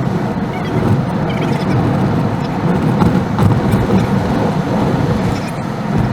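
Car driving: steady road and engine noise.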